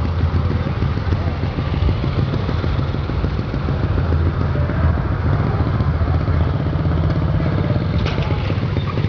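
Small engine of a quarter-scale pulling tractor running steadily and hard, with a fast, even pulsing exhaust note.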